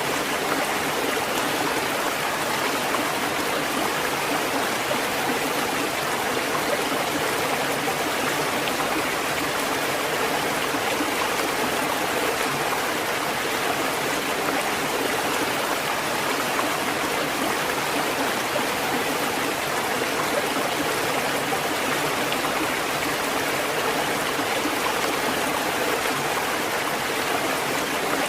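Continuous rushing water, steady and even throughout, with no swell and break of waves.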